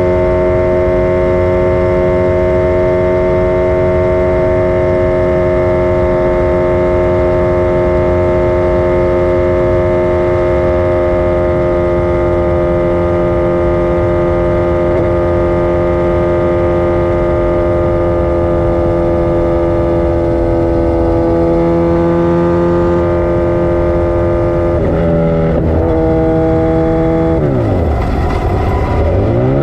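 Motorcycle engine running at steady high revs. Near the end the revs drop sharply and then climb again.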